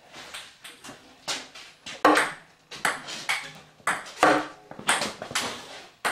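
Table tennis ball in a rally, bouncing between paddles and table: a quick, irregular run of sharp clicks, several a second, with a few louder strikes standing out.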